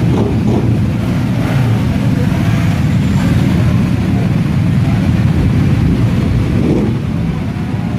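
Steady low rumble of motorcycle engines, with no distinct revs or passes.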